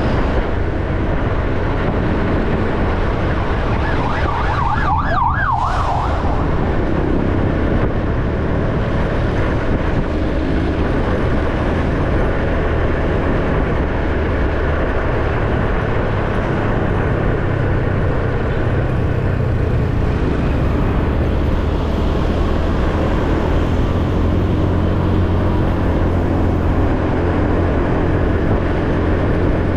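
Ordinary motorcycle riding along a road: a steady engine hum with wind and road noise. About four seconds in, a brief wavering high tone cuts across it for a second or two.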